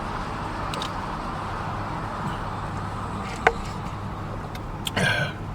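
Steady hum and rush of a vehicle cabin, as of an idling engine with its fan running, with one sharp click about three and a half seconds in and a short noise near the end.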